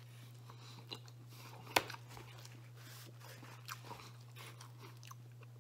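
A man chewing and biting into a slice of pizza, with soft crunches from the crust and one sharper crunch about two seconds in, over a steady low hum.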